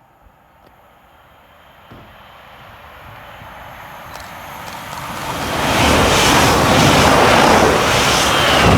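A train approaching and passing at speed, a rushing noise that grows from faint to loud over about five seconds and stays at full strength near the end.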